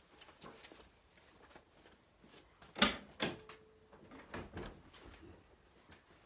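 Scattered soft clicks and taps, with one sharp knock just before three seconds in and a second, lighter knock right after it.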